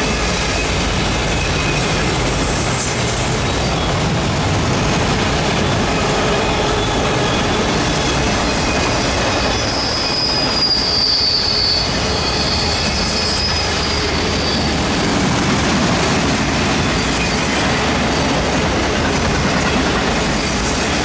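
Freight train of autorack cars rolling past: a steady rumble and rattle of steel wheels on rail, with a high-pitched wheel squeal rising about halfway through and fading a few seconds later.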